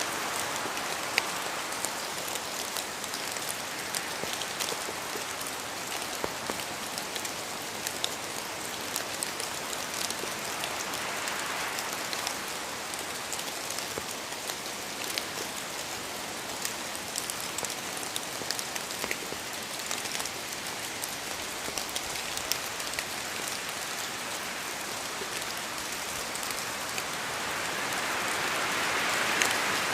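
Steady rain falling, a constant hiss dotted with small sharp drop ticks, swelling a little near the end.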